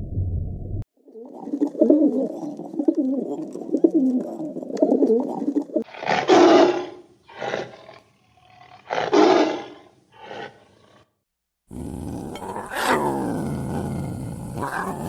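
Several different animal calls cut one after another. A low warbling call runs for about five seconds, then come four loud separate calls, and near the end a call falls in pitch over a steady hiss.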